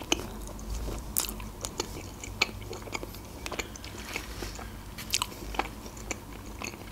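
Close-miked eating of a slice of pizza: a bite right at the start, then chewing with irregular soft crunches and wet mouth clicks.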